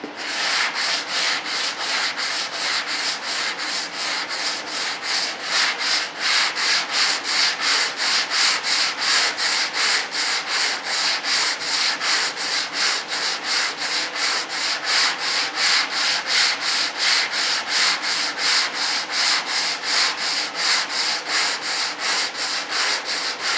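Sandpaper sanding a model part in quick, even back-and-forth strokes, about three a second, cutting the surface down flat.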